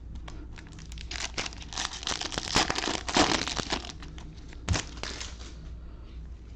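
A foil baseball card pack wrapper crinkling and being torn open: a dense run of crackles lasting a few seconds, loudest in the middle, with one sharp click near the end.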